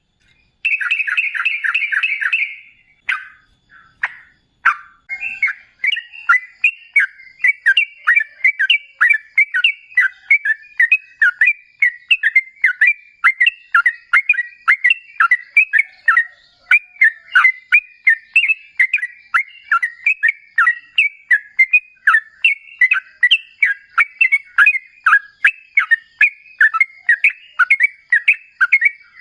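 Yellow-vented bulbul singing: a fast run of bubbling notes, a short break, then a long unbroken chatter of quick notes at about three a second, the long rapid 'ropel' song used as a lure to set other bulbuls singing.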